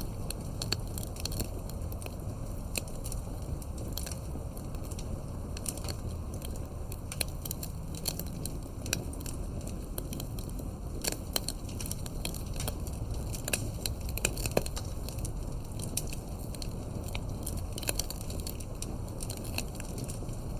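Wood fire burning, with frequent irregular crackles and pops over a steady low rumble of the flames. A few louder pops come about two-thirds of the way through.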